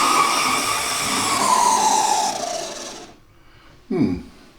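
Oxford Rail Class 415 Adams Radial 4-4-2T model locomotive's motor running at full speed with a loud, high whine, very noisy; the pitch drops and the whine dies away about three seconds in as it slows. The owner takes the noise to be the motor needing lubrication, probably dried-up lubrication.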